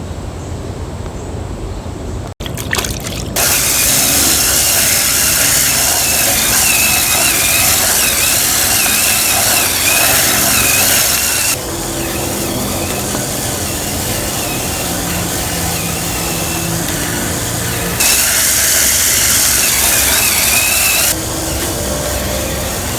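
Cordless spin scrubber's small motor whining as its flat brush scrubs vinyl siding, starting about three seconds in: a loud hiss of bristles with a wavering high whine, stepping quieter and louder a few times as the brush's contact changes.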